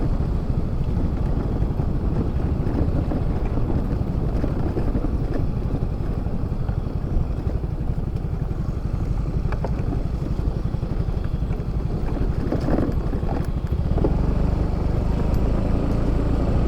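A Yamaha Fazzio motor scooter being ridden: a steady engine and road rumble mixed with wind on the microphone, growing louder in the low end about two seconds before the end.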